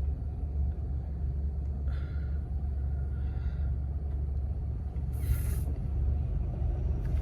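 Steady low road rumble heard from inside a moving car, with a brief hiss about five seconds in.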